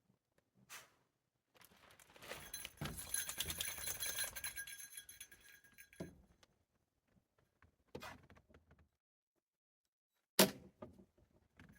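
Metal parts jangling and clinking as they are handled for about four seconds, with a ringing metallic shimmer. Then come two separate knocks, the second sharper and louder.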